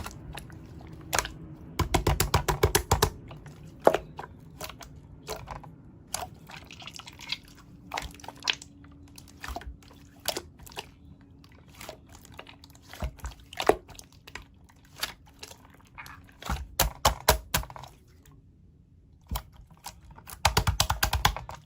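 Slime being pressed and squished by hand: scattered sticky clicks and pops, with quick crackling runs of small pops a few times.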